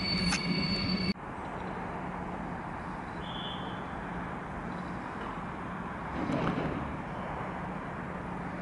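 Passenger train standing at the platform: a high wheel squeal cuts off sharply about a second in, leaving a steady low hum. A short louder rush of noise comes about six seconds in.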